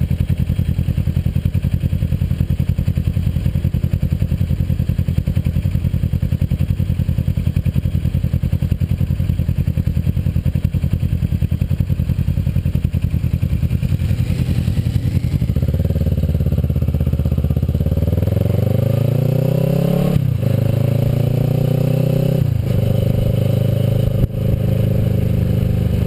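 Kawasaki Versys motorcycle engine running at low, steady revs, then accelerating with a rising pitch from about halfway through, with two brief breaks as it shifts up a gear before settling into a steady pull.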